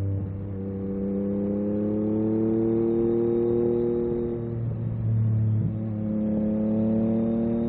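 Yamaha MT-09 SP's three-cylinder engine through an Akrapovic carbon racing exhaust, accelerating with its pitch rising steadily. There is a short dip and a drop in pitch about two-thirds of the way in, a gear change, and then it climbs again.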